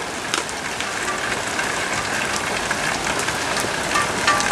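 Steady rain falling and pattering on surfaces, a dense hiss of many small drop ticks.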